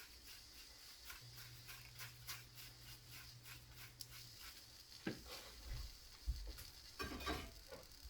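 Omelette with potato, mushroom, onion and ham frying in a pan: a soft steady sizzle with small crackling pops, and a few louder knocks about five and seven seconds in.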